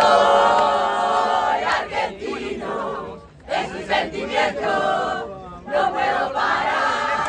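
Crowd of football fans chanting and singing together in loud, rhythmic phrases, with short breaks between them.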